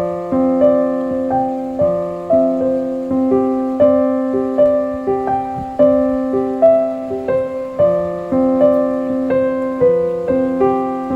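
Piano background music: a simple melody of single notes over held low notes, played at a steady, even pace.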